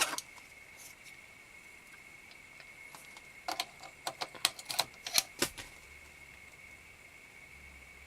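A quick run of small plastic clicks from buttons pressed on a Sony car CD player head unit, clustered about three and a half to five and a half seconds in, over a faint steady high whine.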